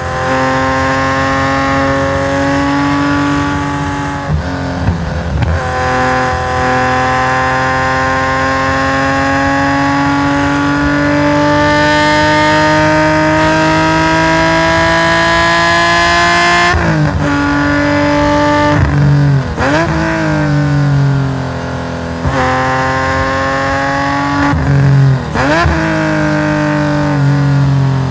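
Tuned Nissan S20 twin-cam straight-six racing engine in a Hakosuka Skyline GT-R, heard onboard through its stainless exhaust. It pulls under full throttle with the revs climbing slowly over a long stretch. About two thirds in, the revs fall sharply through a quick run of downshifts with throttle blips, then the engine revs up hard again, with more gear changes near the end.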